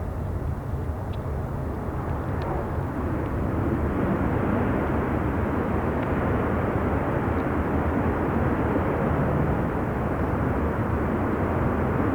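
Jet airliner engine noise, a steady rush that swells about four seconds in and holds, over a low rumble of wind on the microphone.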